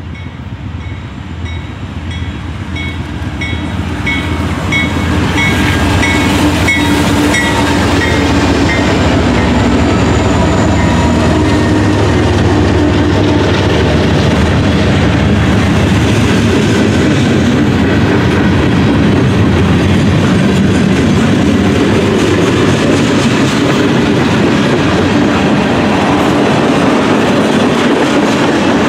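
A Canadian National diesel-hauled freight train passing close by. The locomotives grow louder over the first five seconds while a bell rings about twice a second. Then comes a steady loud rumble and wheel clatter of freight cars rolling past.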